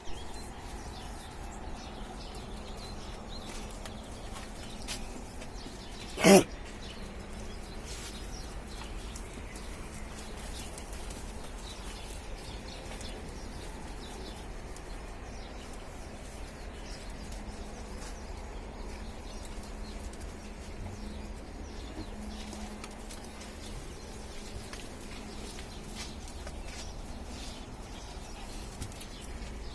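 A goat bleats once, briefly and loudly, about six seconds in, over a steady low background rumble.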